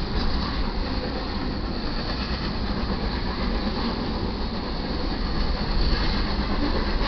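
Double-stack intermodal container cars of a BNSF freight train rolling past: a steady noise of steel wheels on rail, swelling slightly near the end.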